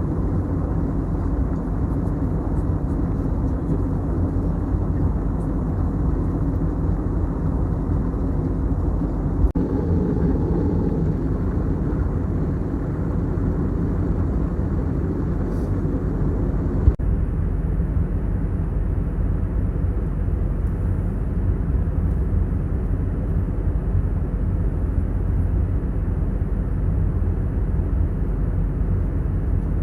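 Steady in-flight cabin noise of an Airbus A321neo at cruise: a continuous low rumble of engines and airflow. A click about 17 seconds in, where the higher hiss drops away.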